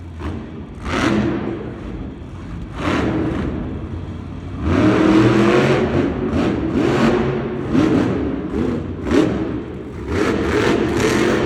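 Monster truck's supercharged engine revving hard in bursts, pitch rising and falling, heard through arena echo, louder from about five seconds in.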